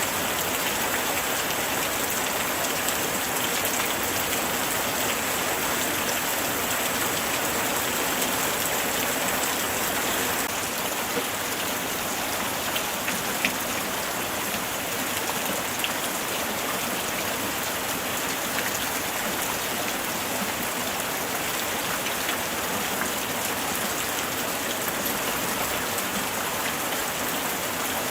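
Steady light rain falling, an even hiss with scattered individual drops ticking on surfaces.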